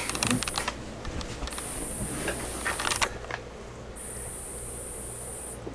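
A high-pitched electronic whine that comes and goes in stretches of about a second and a half, with a few scattered clicks over a low steady hum.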